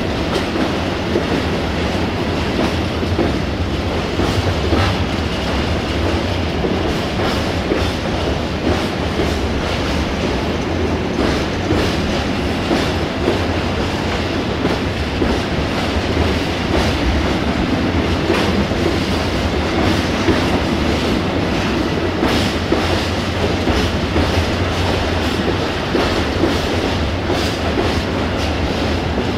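Railway tank wagons of a freight train rolling past, a steady rumble with wheels clicking over the rail joints.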